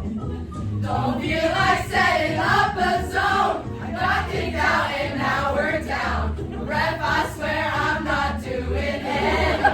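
A group of girls singing together over a backing track with a low, pulsing beat; the words are not clear.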